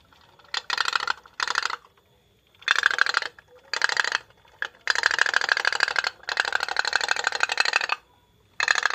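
Fast, even clicking rattle from a small mechanism, coming in about eight bursts of half a second to a second and a half each, with short pauses between them.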